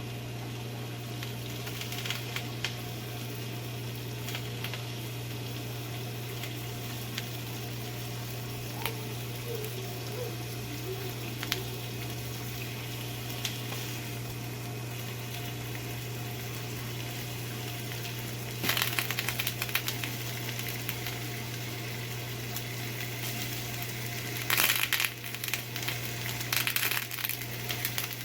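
Chicken kebab skewers searing in hot oil in a pan: a steady, faint sizzle with scattered small pops, flaring into louder crackling sizzle about two-thirds of the way in and again near the end. A steady low hum runs underneath.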